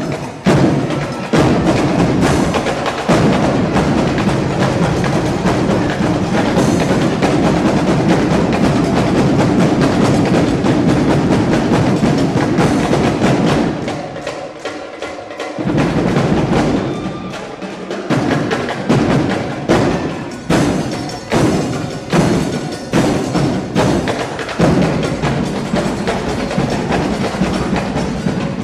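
Drill team drum line playing a loud, fast percussion cadence with sharp stick-like hits. A little past the middle it drops away for a moment, then comes back as a string of separate hard strikes.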